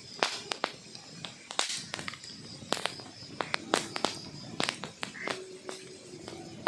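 Burning wood logs crackling: irregular sharp pops and snaps, several a second, over a soft hiss, with a short low steady tone near the end.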